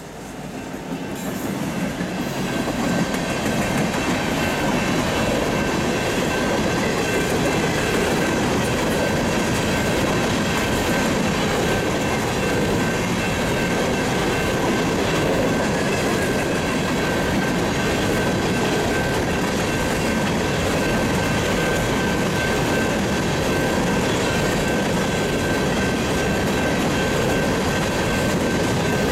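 An empty coal train rolling past close by: BNSF diesel locomotives, then a string of empty coal cars with a steady rumble and clattering wheels. A thin steady high ring sits over the noise throughout. The sound swells over the first couple of seconds, then holds.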